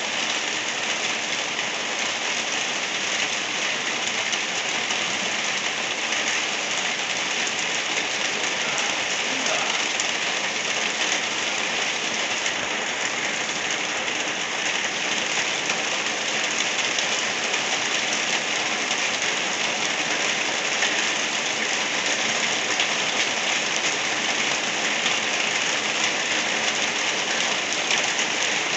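Gentle steady rain falling, an even hiss of drops on surfaces with no change in strength.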